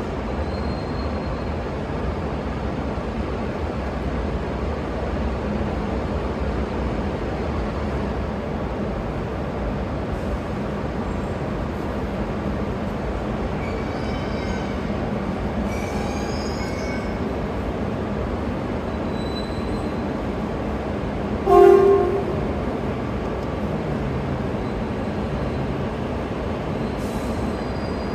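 Shinkansen train at the platform with a steady mechanical hum. Faint high wheel squeals come about halfway through, and a single short horn blast sounds about three-quarters of the way in.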